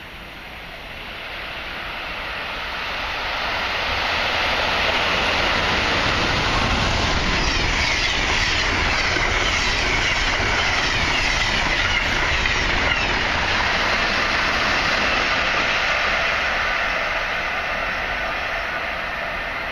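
Electric passenger train passing at speed: the rush of wheels on rail and air builds over a few seconds, holds steady and loud for about twelve seconds, then starts to fade.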